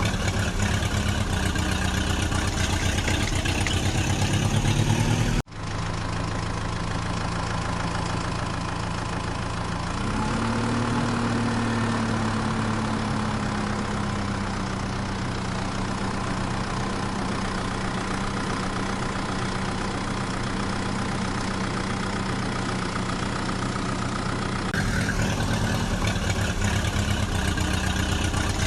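Diesel engine of heavy machinery idling steadily, with a brief rise in engine speed about ten seconds in that settles back, and abrupt changes in the sound a few seconds in and near the end.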